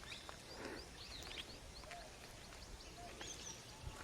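Faint forest birdsong: many short, high chirps and little whistles from several birds, over a low rumble.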